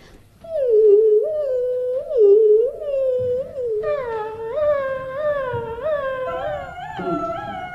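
A person's voice singing one wordless, humming tone that swoops up and down in pitch in short waves. It grows brighter about four seconds in and steps up to a higher note near the end.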